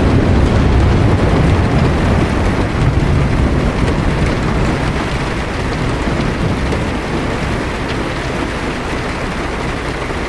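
Heavy rain hitting a car's windshield and roof, heard from inside the car as a steady hiss. A low thunder rumble is strongest over the first few seconds, then fades.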